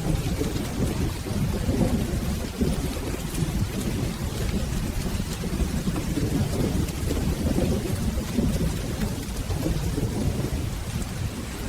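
Steady rain with low, rolling thunder rumbling underneath, a continuous storm ambience without distinct single claps.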